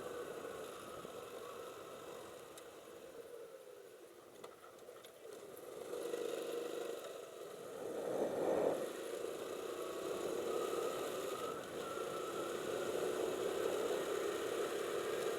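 Motorcycle engine running while riding, with wind and road noise; it eases off and gets quieter for a few seconds, then picks up again about six seconds in, peaking briefly near the middle before settling into a steady cruise.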